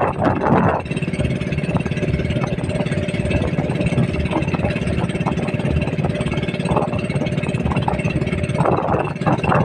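Motorboat engine running steadily at an even speed, a continuous low drone.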